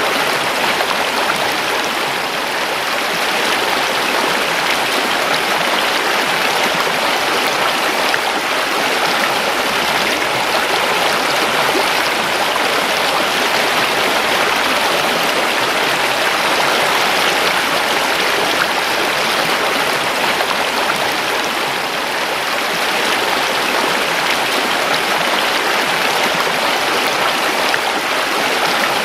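A river or stream flowing over rocks: a steady, even rush of running water.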